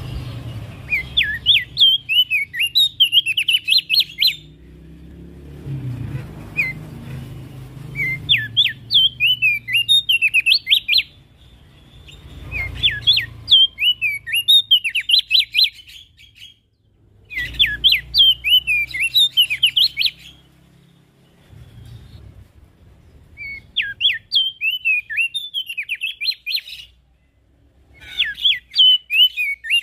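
Opior jambul (Javan grey-throated white-eye) singing: six rapid phrases of about three seconds each, made of quick sweeping chirps, with short pauses between them. A faint low hum runs underneath at times.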